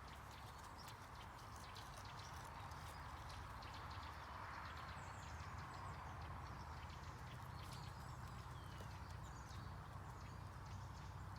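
Faint, irregular clicks of hoofed animals moving about, over a steady low hum.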